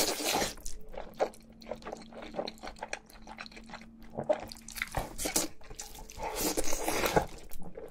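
Close-miked mukbang eating: wet chewing and smacking made up of many short clicks, with two longer, louder stretches, one right at the start and one about six and a half seconds in.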